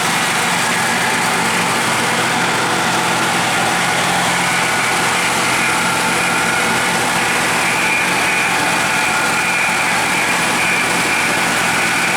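Supercharged 6.0 L Chevy V8 in an AMC AMX running steadily at idle on its first start-up, with a thin high whine over it that gets stronger about four seconds in.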